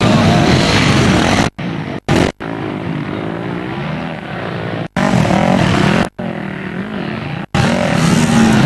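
Off-road motorcycle engine heard from a helmet camera, revving up and down as the bike is ridden over an enduro track, with rushing wind noise over it. The sound breaks off abruptly several times, about 1.5, 2 and 2.3 seconds in, then near 5, 6 and 7.5 seconds in.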